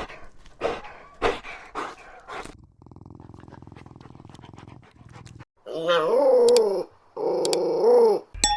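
Puppies yapping, about five sharp short barks in quick succession. A low, steady growl follows for a few seconds. Then come two long, wavering howls.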